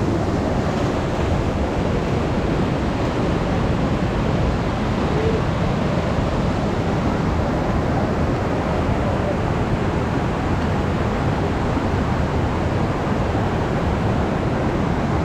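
Steady rush of water falling and pouring over rocks at a waterfall.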